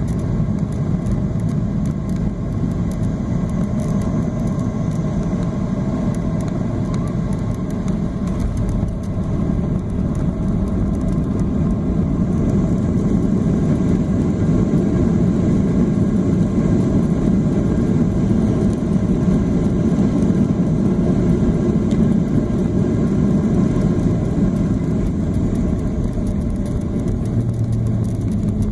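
Steady rumble of a Boeing 737-800's CFM56 jet engines and rushing air, heard inside the cabin. It grows slightly louder about halfway through.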